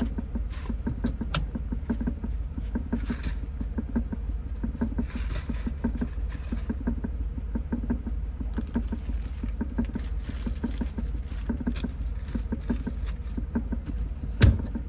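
Semi-truck running, with a steady low engine rumble, light rattles and clicks, and one loud thump near the end.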